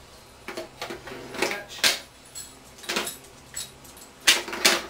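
A series of sharp plastic clicks and knocks from a Tokyo Marui P90 airsoft gun being handled as its magazine release catch is worked. The loudest are a close pair near the end.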